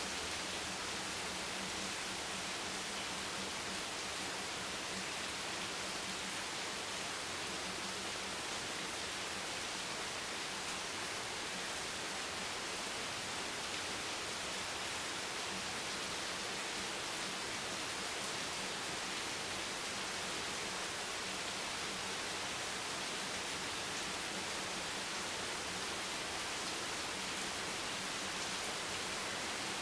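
Steady rain, an even hiss that holds the same level throughout with no single sounds standing out.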